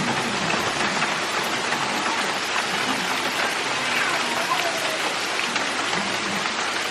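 Steady heavy rain from a slow-moving tropical storm, pouring down without a break.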